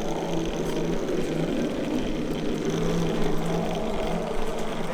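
A steady mechanical hum with a constant low droning tone underneath.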